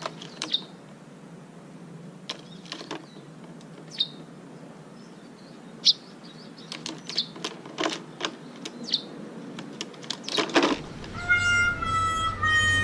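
Short, high chirps from a small bird, spaced a second or two apart, with scattered sharp clicks and knocks. Music with sustained tones comes in about eleven seconds in.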